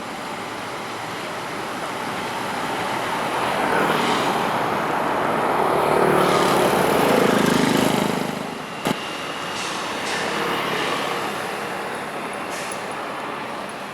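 Road traffic noise: a vehicle passes by, growing louder to a peak and then fading, with one sharp click about nine seconds in.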